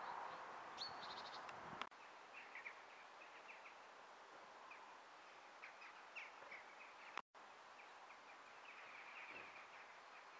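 Faint, scattered small-bird chirps over near-silent outdoor quiet, after a soft rushing noise in the first two seconds.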